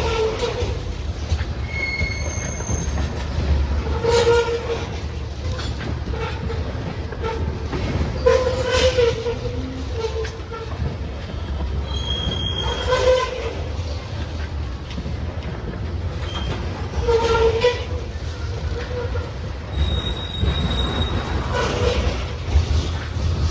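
Loaded grain train's freight cars rolling past slowly, a steady low rumble of wheels on rail. A short wheel squeal with a clatter comes back about every four seconds as each car's wheelsets go by.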